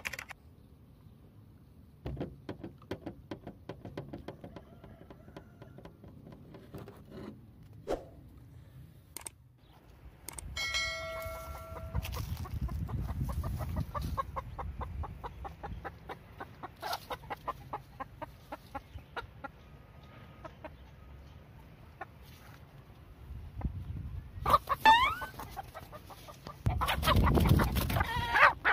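Chickens clucking in short scattered calls, with one longer steady call about ten seconds in and a few quick rising chirps near the end. A low rumble swells twice, loudest near the end.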